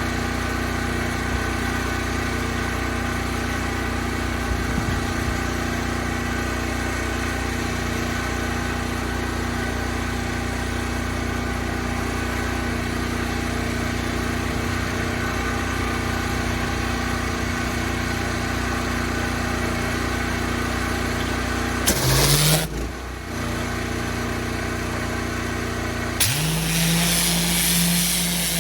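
Pressure washer engine running steadily at idle. Near the end the engine note picks up under load and a loud hiss of high-pressure water spraying starts, after one short burst of the same a few seconds earlier.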